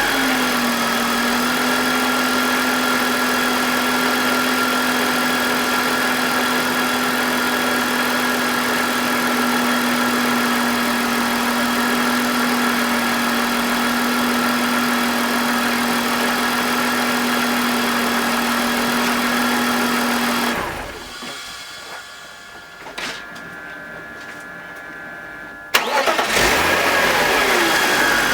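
BMW M52TU 2.5-litre straight-six idling steadily with the exhaust VANOS solenoid unplugged, its revs settling in the first second. About twenty seconds in it is switched off. Some five seconds later it is restarted with the VANOS reconnected, the revs flaring and then falling back toward idle; this restart is where the owner hears a faint grinding that he blames on the VANOS.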